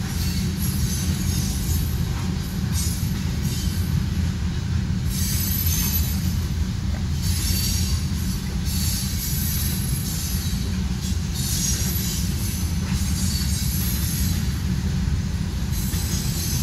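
Freight train of covered hopper cars rolling past at steady speed: a continuous low rumble with high-pitched wheel squeal coming and going every second or two.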